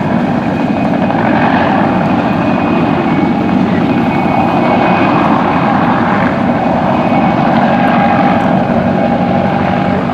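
PZL Kania helicopter in flight, its rotor and twin turboshaft engines running with a steady, loud noise.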